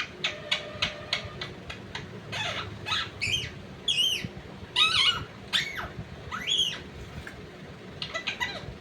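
Pet parrot chirping and squawking: short clicks and chirps at first and again near the end, with several louder calls that rise and fall in pitch in the middle.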